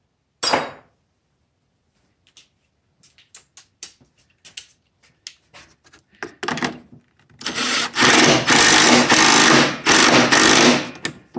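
A sharp knock, then scattered metallic clinks of tools being handled. Near the end a handheld power tool runs loudly for about three seconds with brief let-offs, most likely driving a 10 mm bolt home.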